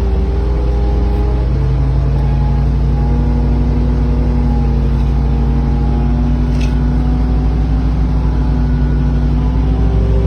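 Excavator engine running steadily under load, its pitch shifting slightly now and then, with a single sharp click about six and a half seconds in.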